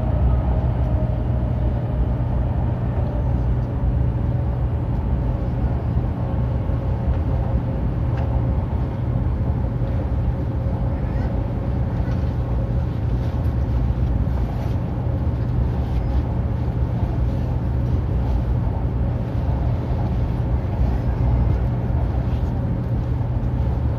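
Hokuriku Shinkansen train running at speed, heard inside the passenger cabin: a steady low rumble and rush of running noise, with a faint whine that slowly drops in pitch.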